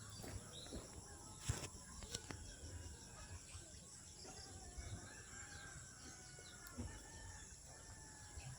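Faint rural ambience: birds calling over a steady high buzz of insects, with two sharp knocks about one and a half and two seconds in.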